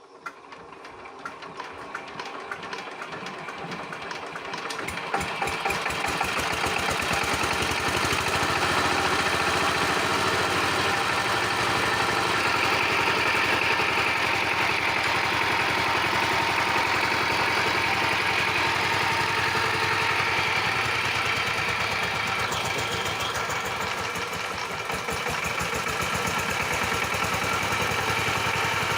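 Power tiller engine running with a rapid, even knock. It grows louder over the first several seconds, then holds steady.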